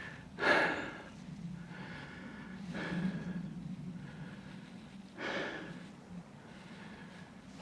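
A man breathing hard through nose and mouth, with three loud breaths about half a second, three seconds and five seconds in.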